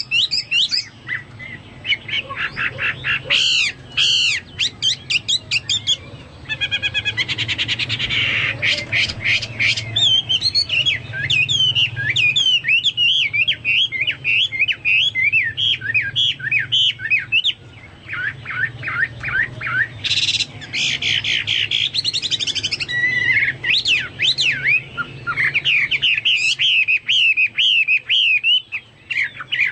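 Chinese hwamei singing continuously: a varied song of rapid whistled phrases, trills and buzzy rattles, in the manner of a cucak Papua or cucak mas.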